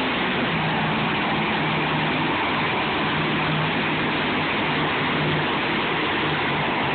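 Monster truck engine running loud and steady, its pitch stepping down slightly about half a second in.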